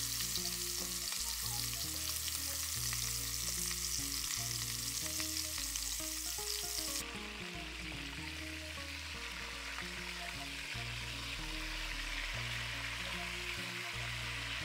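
Peeled potatoes sizzling in a hot aluminium pot as a wooden spoon stirs them, a steady frying hiss that turns quieter and duller about seven seconds in. Soft background music runs underneath.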